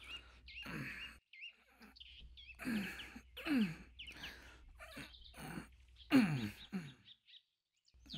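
Small birds chirping, with several short, low sounds that fall in pitch, the loudest about six seconds in.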